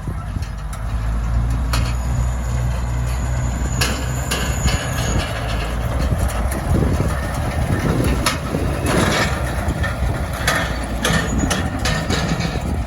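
Oliver tractor engine running steadily while the hay machinery behind it clanks and knocks over and over.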